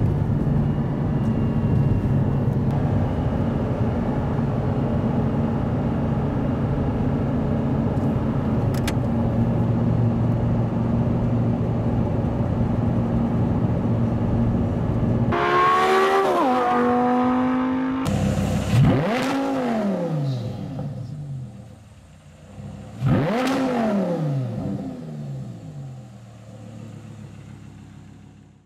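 Audi R8's V10 engine through a high-flow X-pipe exhaust, running steadily for about fifteen seconds. Then it is revved: a falling note, then two free-revving blips, each rising and falling in pitch, before the sound dies away.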